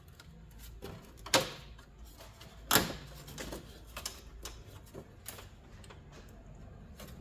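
Hands working a 1997 Toyota Corolla's plastic front grille loose: a scattered run of sharp plastic clicks and knocks, with two louder knocks about a second and a half in and just under three seconds in.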